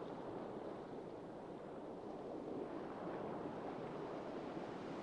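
Steady, soft rushing of water: a sea ambience with no distinct events.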